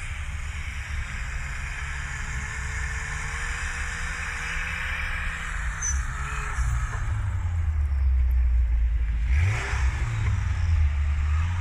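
Turbocharged car engine on 0.5 bar of boost, running while the car is driven, with a steady low drone that grows louder and a rise in revs about nine and a half seconds in.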